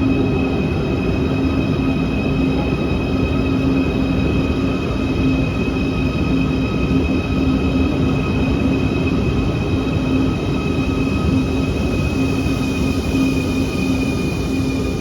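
Quito Metro subway train running at a steady speed: an even rumble with steady whining tones held at one pitch.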